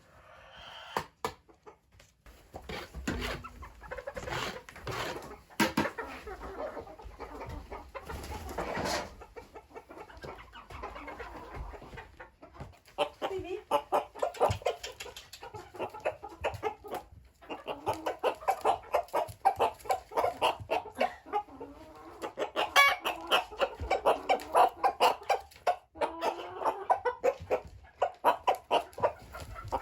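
A flock of hens clucking, with many quick sharp taps mixed in, getting busier and denser in the second half.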